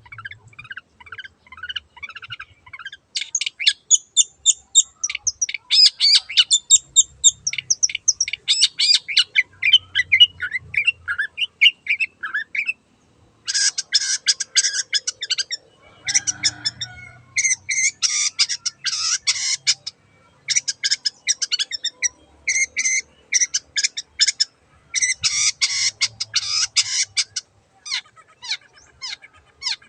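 Long-tailed shrike (cendet) singing: fast runs of short high chirping notes, then from the middle on several dense bursts of rapid chatter, each a second or two long with short pauses between.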